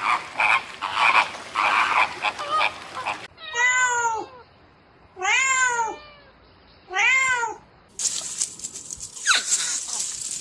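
A domestic cat meowing three times in a row, each call rising then falling in pitch, about a second and a half apart. Before them is a few seconds of busy, scratchy noise with short cries, and after them a hissing, noisy stretch.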